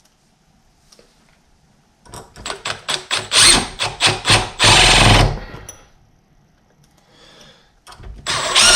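Cordless power driver driving wood screws into the door edge, in pulses of the trigger. The first run lasts about three seconds and a second starts near the end.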